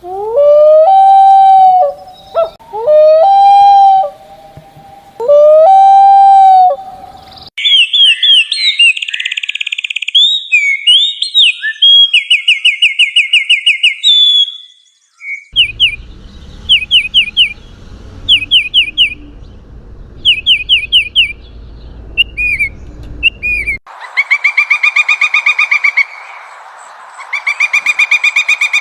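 Several different birds' songs and calls, one after another with abrupt cuts. First come three loud, long calls that rise in pitch. Then a fast, varied high song, then short series of quick down-slurred whistled notes. Last come two bursts of rapidly repeated harsher notes.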